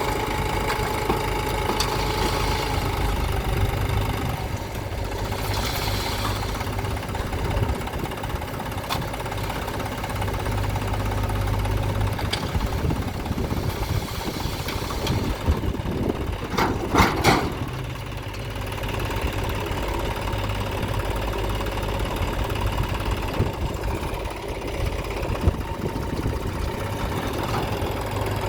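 John Deere tractor's diesel engine running steadily, with a short burst of sharp knocks about two-thirds of the way through.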